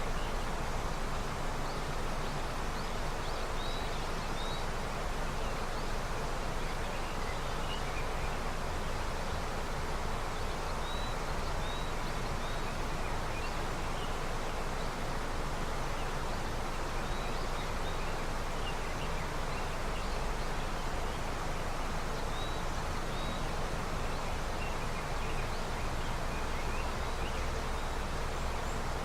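A river running steadily with spring snowmelt, an even rushing of water, with faint short bird chirps scattered throughout.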